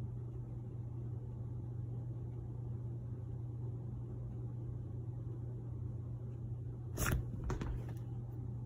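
A steady low hum with rumble underneath, and a sharp knock about seven seconds in followed by two or three lighter knocks.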